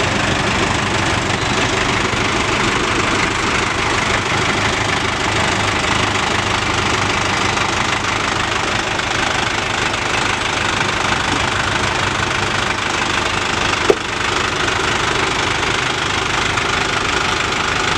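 Diesel engine running steadily, with one short sharp click late on.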